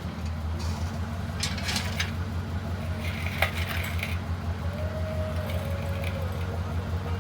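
A car engine idling steadily, its low rumble pulsing evenly, with a few light metallic clinks like keys being handled.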